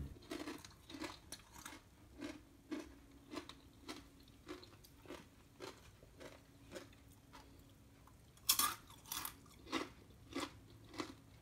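Someone chewing crispy sweet potato chips, a crunch on each chew in a steady rhythm a little under two a second. The crunches get louder from about eight and a half seconds in.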